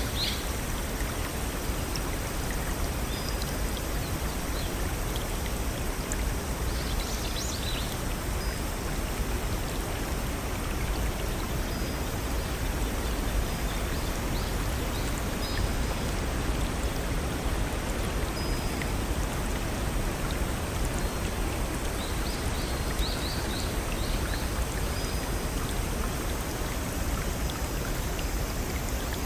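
A small brook or waterfall running with a steady rush of water. A bird chirps in short high runs about seven seconds in and again around twenty-three seconds.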